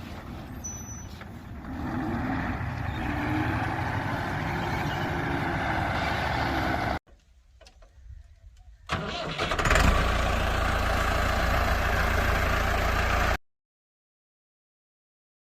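Vehicle engine running steadily, broken by a brief near-silent gap about seven seconds in. It comes back louder with a deeper rumble about two seconds later, then cuts off abruptly near the end.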